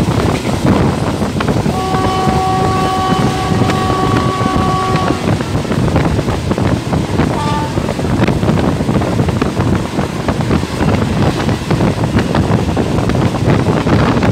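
Moving passenger train heard from an open carriage window: wind rushing over the microphone over the rumble of the wheels on the rails. About two seconds in the train's horn sounds one steady note for about three seconds.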